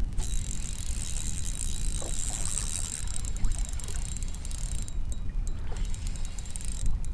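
Water lapping and splashing against a kayak hull, a crackling hiss that breaks off briefly partway through, over a steady low rumble of wind on the microphone.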